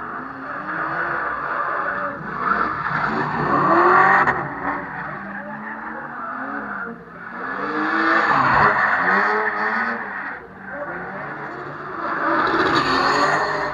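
Drift cars' engines revving up and down with tyres squealing as they slide, swelling loudest three times, about four seconds in, around eight to nine seconds in, and near the end.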